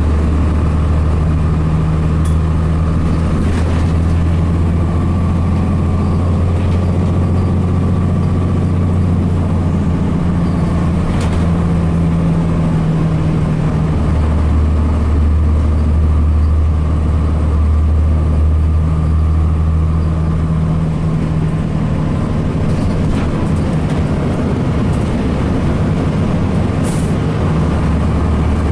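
Cummins ISC diesel engine of a 2002 Blue Bird CS transit bus running with a low drone that shifts in pitch a few times. A few short sharp clicks come through over it.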